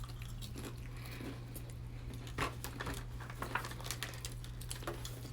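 Eating noises: scattered small crunches, clicks and rustles from crackers, turkey and cheese being eaten and handled fast, over a steady low hum.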